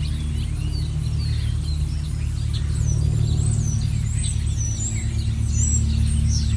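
Several small songbirds chirping and whistling in short, quick phrases, over a steady low hum that is the loudest sound throughout.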